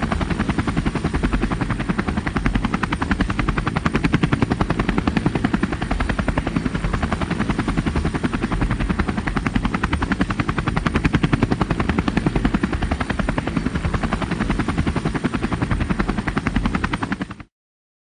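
Helicopter rotor chop, a loud, steady and rapid beat that cuts off suddenly near the end.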